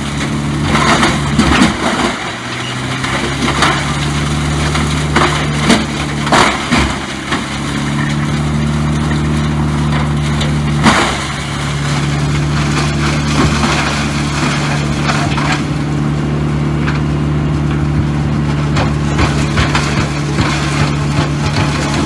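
A heavy machine's engine running steadily while wood is cracked and splintered, with sharp snaps in the first half and one loud crack about halfway through.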